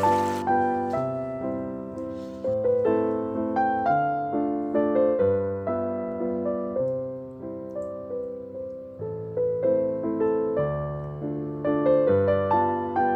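Background piano music: a gentle melody of struck notes with bass notes under it.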